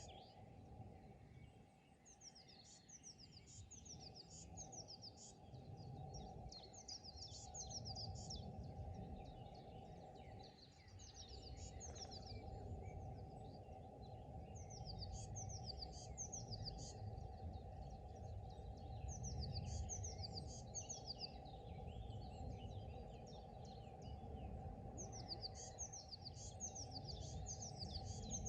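Birds singing: phrases of quick, high, falling notes, repeated every few seconds, over a steady low background rumble.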